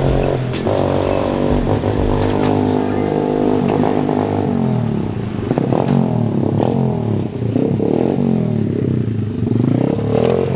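SYX Moto 125cc dirt bike's single-cylinder four-stroke engine running steadily, then revving up and down over and over as it is ridden up through the gears.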